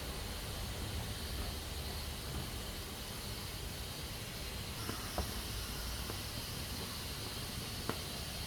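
Pressure cooker hissing steadily as steam escapes from its valve, with a few short sharp ticks about halfway through and again near the end.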